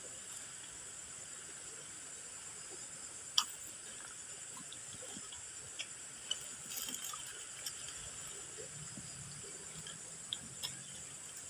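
A few sharp, scattered crunches and clicks over a steady hiss: crispy basreng chips being bitten and chewed, with the loudest crunch about a third of the way in and a small run of them just past the middle.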